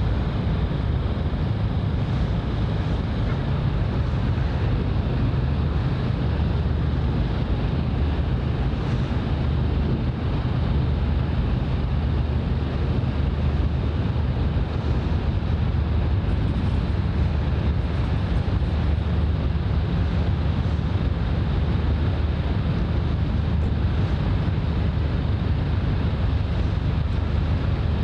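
Steady wind noise on the microphone over a constant low rumble, with no breaks or distinct events.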